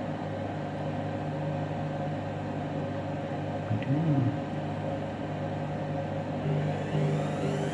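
Candy washing machine running its spin cycle: a steady low hum, then near the end the motor's whine begins to rise in pitch as the drum starts picking up speed toward a 1600 rpm spin.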